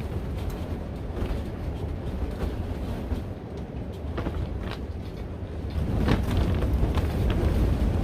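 Strong wind buffeting a plastic-covered cattle panel greenhouse: a steady low rumble with short cracks and rattles, growing louder about six seconds in.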